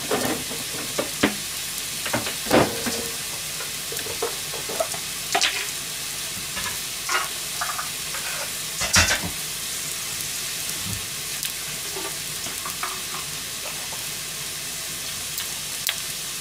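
Beef and konnyaku frying in a frying pan: a steady sizzle with scattered sharp pops and spits, the loudest about nine seconds in.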